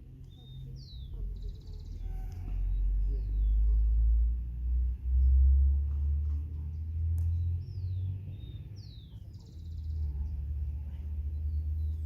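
Low rumble of wind buffeting the microphone, swelling loudest in the middle, with short bird chirps scattered through it.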